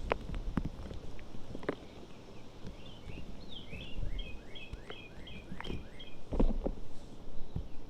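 Reformed gym chalk crunching and crumbling in irregular crisp cracks, with a louder cluster about six and a half seconds in. A bird sings in the background, a run of about eight quick falling chirps in the middle.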